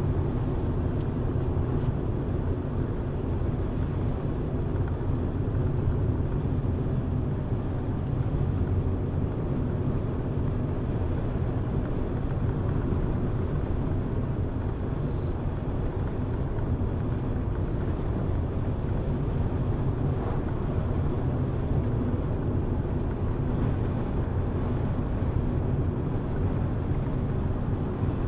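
Car driving at a steady speed: an even, low engine and tyre-on-road noise that does not change.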